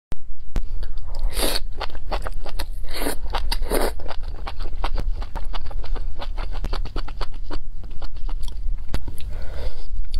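Close-miked chewing of food, with many quick sharp crunches and a few longer, louder mouth sounds about a second and a half, three and four seconds in.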